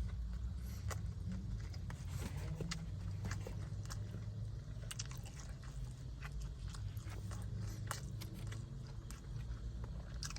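A person chewing and biting into oven-roasted chicken close to the microphone: scattered small wet clicks and smacks of the mouth over a steady low hum.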